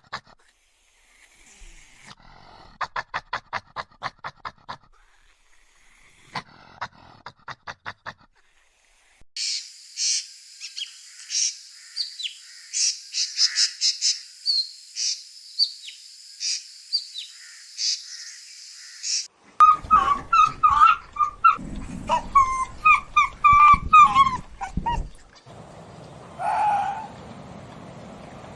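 A string of different animal calls in separate stretches. First come two runs of rapid pulsed notes, then about ten seconds of high chirping, then a stretch of lower, choppy calls and a last single call near the end.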